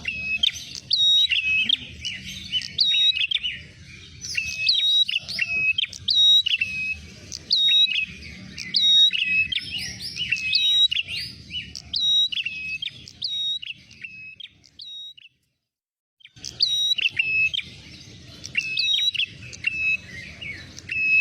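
Prenjak merah (a small prinia-type warbler) calling in a rapid, insistent series of short, sharp chirps, several a second. This is a lure call used to draw the bird in. The calling breaks off completely for about a second some fifteen seconds in, then resumes.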